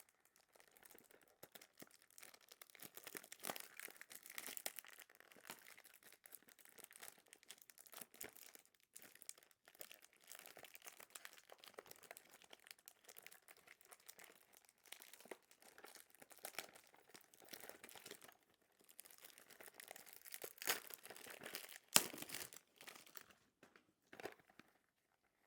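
Plastic wrapping and a cardboard perfume box handled during unboxing: continuous crinkling and tearing with many small clicks, and a couple of sharper taps near the end.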